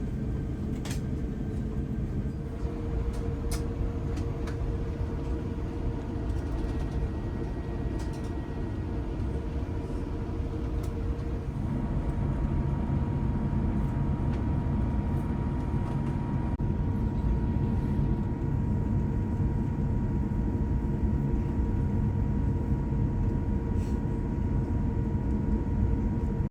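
Airbus A350-1000 cabin noise from its Rolls-Royce Trent XWB engines: a steady rumble with engine hum, growing louder about twelve seconds in.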